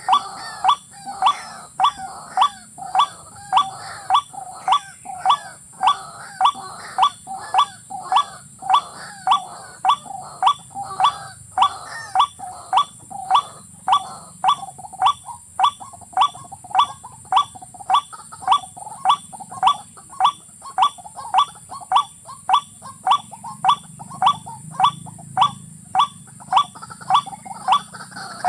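White-breasted waterhen calling: a loud, sharp call repeated at an even pace of about two a second without a break.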